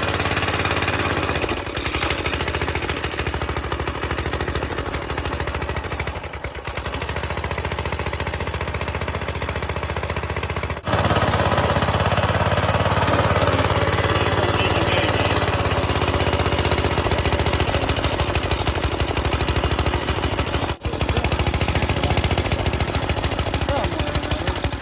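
Old single-cylinder Briggs & Stratton engine on an antique Eclipse reel mower, running with a rapid popping beat. It dips briefly a few times and runs louder from about eleven seconds in.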